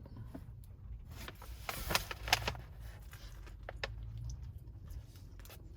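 Biting into and chewing a grilled sub sandwich: soft crunching and mouth sounds, with a cluster of sharper crisp crackles about two seconds in, over a low steady hum.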